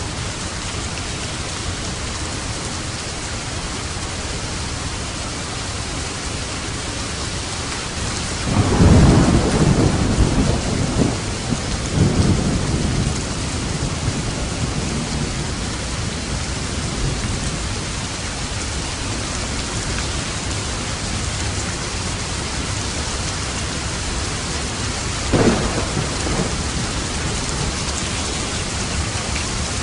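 Steady heavy rain with thunder: a loud rolling rumble of thunder about a third of the way in, and a shorter, sharper thunderclap near the end.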